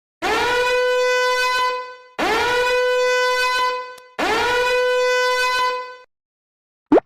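Three identical loud horn blasts, each scooping quickly up into a steady held note for about two seconds, with short gaps between them: a repeated meme sound effect.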